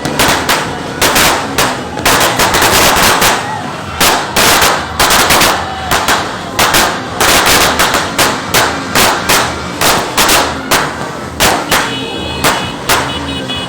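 Firecrackers and fireworks going off in rapid, irregular bangs, with dense crackling runs like strings of firecrackers; a few held tones come in near the end.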